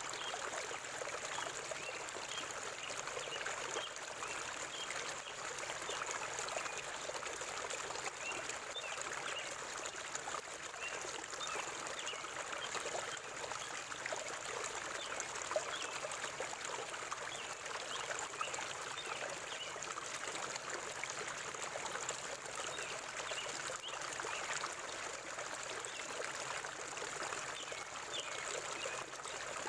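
River water flowing and trickling steadily, a continuous rushing with lots of small bubbling splashes.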